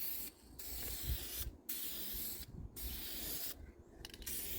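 Spray paint hissing onto a car body panel in about four back-and-forth passes, each about a second long with short breaks between, as a coat of paint goes on.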